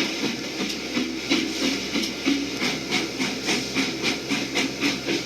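Steam locomotive chuffing at a steady pace, about two to three puffs a second.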